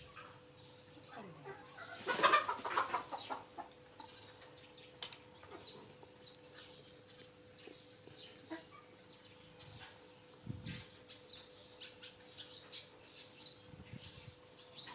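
Short animal calls, clucks and chirps, with a dense burst about two seconds in and scattered single calls after, over a faint steady hum.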